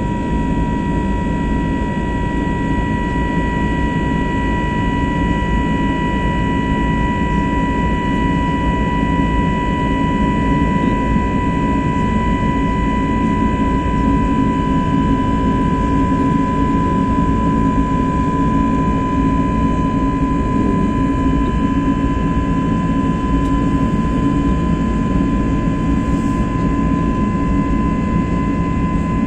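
Airbus A321neo's jet engines heard from inside the cabin as the plane climbs after takeoff. A steady, loud drone carries a constant high whine over a low rumble of rushing air.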